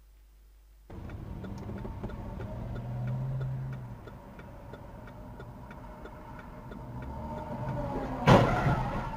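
Car running, heard from inside the cabin through a dashcam, with a steady ticking like a turn signal, then a single loud impact near the end: a collision.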